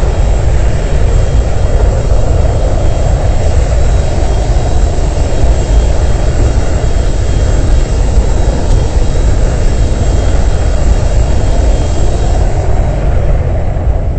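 Boeing 737-200's Pratt & Whitney JT8D jet engines heard from inside the cabin: a loud, steady low rumble with rushing noise over it, the higher hiss easing off near the end.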